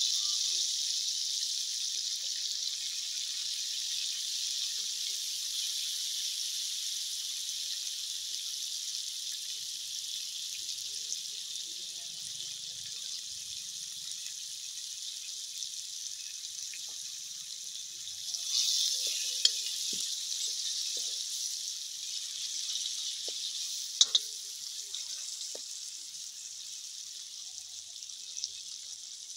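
Pork pieces with tomato and spices sizzling in hot oil in an iron wok: a steady hiss that starts suddenly, slowly dies down, and flares up again a little past the middle. A few sharp metal clicks come in the second half.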